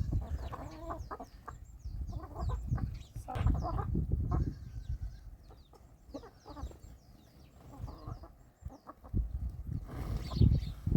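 Chickens clucking, with many short high falling calls and dull low rumbles about three seconds in and again near the end.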